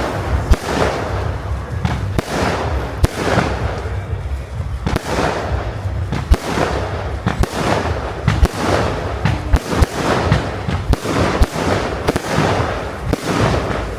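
Fireworks display: a continuous barrage of sharp bangs, several a second, over steady crackling.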